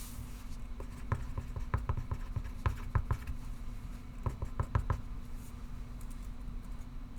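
Pencil writing on paper, short scratchy strokes in two runs, the second brief run about four seconds in, over a steady low room hum.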